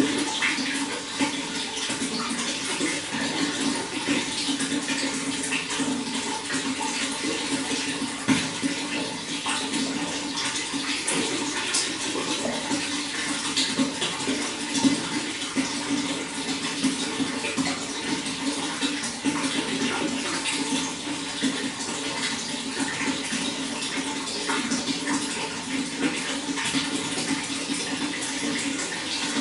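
Running water: a steady splashing flow with many small splashes and drips throughout.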